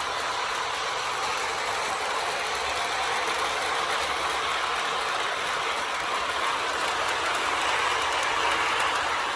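Lionel O gauge Burlington Northern RS3 toy diesel locomotive and its cars running around the track, with a steady rolling rumble of wheels on the rails. It gets a little louder near the end as the train comes closer.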